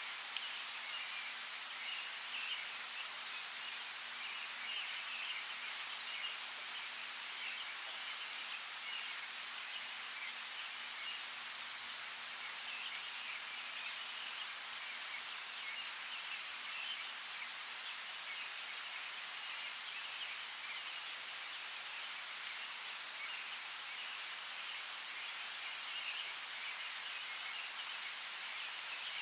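Steady rainfall with scattered sharp drop ticks, and birds chirping on and off beneath it.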